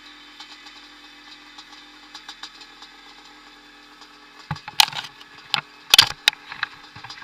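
Vintage motocross motorcycle engines running steadily, with a cluster of sharp knocks and rattles about four and a half to six seconds in.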